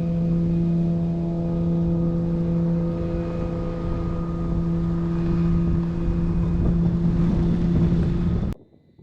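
A boat motor running steadily at an even pitch, with some wind noise, cutting off abruptly near the end.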